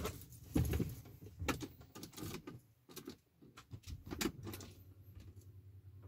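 Clicks and knocks inside a car cabin, then a 1995 BMW E36 320i's straight-six engine starts about four seconds in and settles into a steady, low idle, heard from inside the car.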